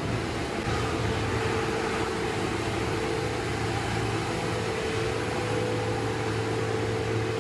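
Road repair machine's engine running steadily, a constant low hum with a higher steady whine that comes in just under a second in.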